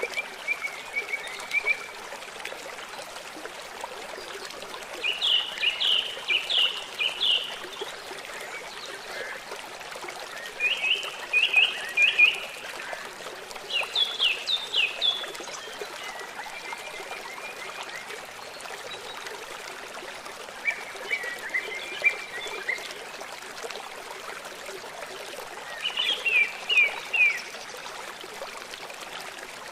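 Songbirds singing short phrases of quick, repeated notes every few seconds, over the steady trickle of running water.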